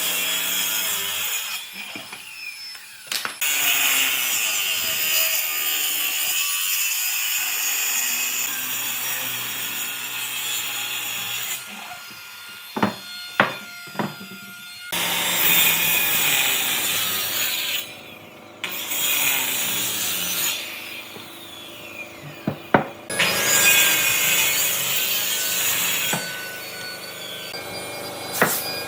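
Wood being worked with a tool, a scraping, rasping sound in long spells with short pauses. A few sharp knocks fall in the pauses.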